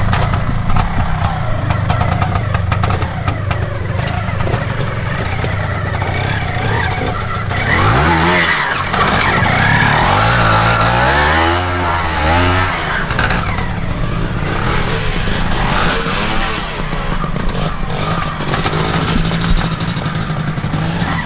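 Classic trial motorcycle engine running at low revs, with the throttle blipped up and down several times about eight seconds in.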